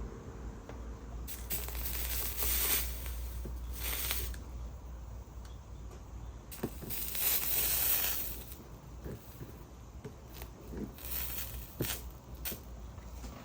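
Soldering iron melting solder onto copper foil, the flux sizzling in several short hissing bursts, with a few light clicks, over a steady low hum.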